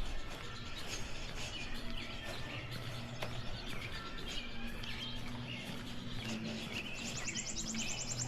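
Songbirds chirping and calling, with a rapid high trill starting near the end, over a steady low hum of distant traffic and faint regular footsteps on pavement at walking pace.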